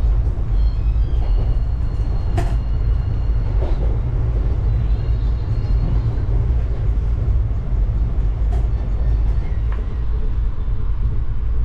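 An Indian Railways sleeper coach in motion, heard from inside: a steady low rumble of the running train, with a few sharp knocks, the loudest about two and a half seconds in, and faint thin squeals in the first few seconds.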